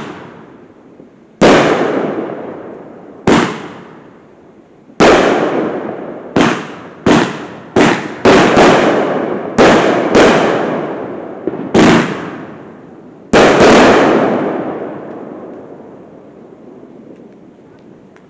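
Fireworks going off: about a dozen sharp bangs at irregular intervals, each with a long echoing tail, several coming in quick succession in the middle. The last pair comes near the end and then dies away.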